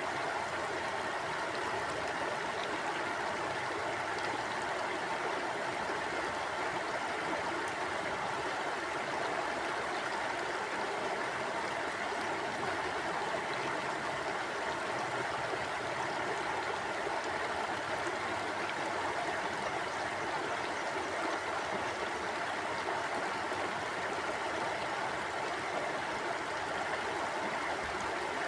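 Mountain river flowing, a steady, unbroken rush of water over rocks.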